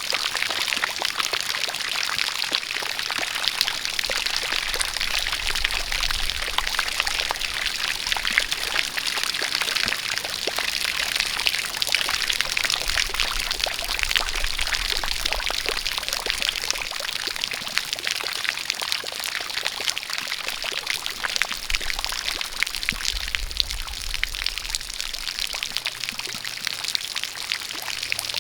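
A jet of water pouring and splashing steadily, with rain falling; a dense, even splashing that does not change.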